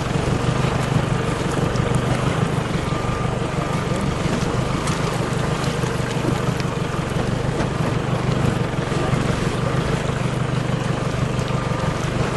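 Four-wheel drive's engine running steadily at low revs in first gear low range, with water washing around the vehicle as it wades through a rocky river crossing.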